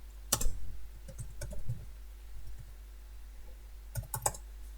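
A few scattered sharp clicks from a computer keyboard and mouse, with a small cluster near the end, over a steady low hum.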